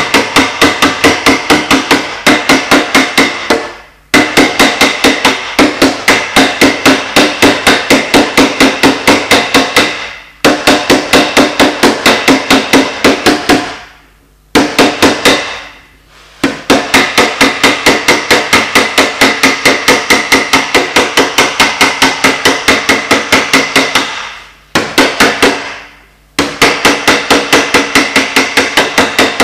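Rapid light hammer taps on a car body panel during paintless dent repair, about three to four a second. The taps come in long runs broken by a few short pauses, and each tap has a slight metallic ring.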